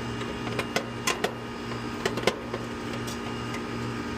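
A few sharp clicks and taps from handling the removed dual run capacitor (35+5) and its terminals, in two small groups. Under them runs a steady machine hum with a low drone that pulses about two and a half times a second.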